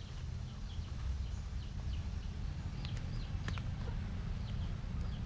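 Small birds chirping over and over in short high notes above a steady low rumble, with a couple of sharp taps about three and three and a half seconds in.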